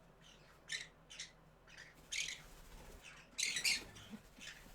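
Pet parrots squawking: about five short, harsh calls, the longest and loudest about three and a half seconds in.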